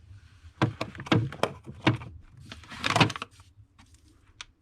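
Food containers and packages being handled and moved about inside a refrigerator: a series of knocks and clicks, then a louder rustle and scrape, and one last click near the end.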